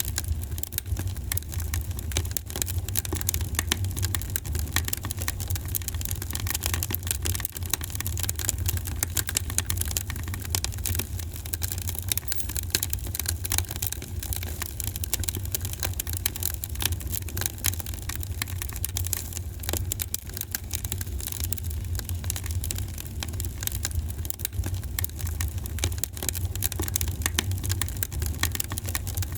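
Wood fire in a fireplace crackling, with many small quick pops over a steady low rumble of the flames.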